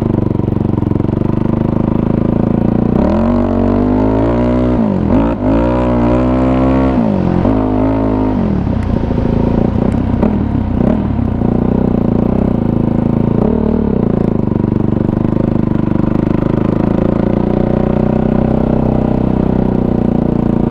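Kawasaki KFX450R ATV's single-cylinder four-stroke engine running at low trail speed. Between about three and eight seconds in it is revved up and down in three short surges, then it settles back to a steady low pitch.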